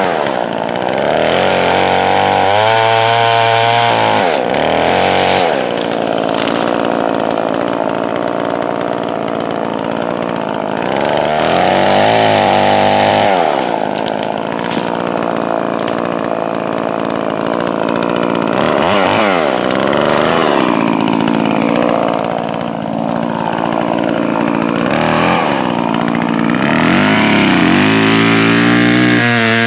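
Poulan Pro 4620 two-stroke chainsaw cutting wood. Its engine pitch rises and drops again and again as it revs and loads up in the cut. It is set to run rich for break-in of a new piston.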